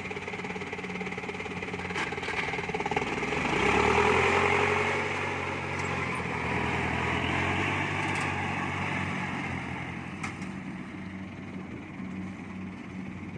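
Kubota DC70 Plus combine harvester running as it works the rice field: a steady diesel engine sound with a rumble, growing louder about four seconds in, then slowly fading.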